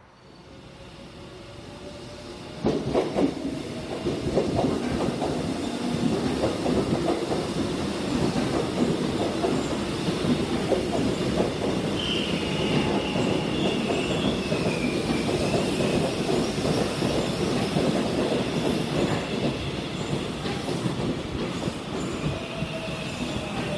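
Seoul Metro Line 1 electric train passing close by: wheels clattering over rail joints, rising sharply about three seconds in, with a high wheel squeal partway through. Faint gliding traction-motor tones come and go near the start and the end.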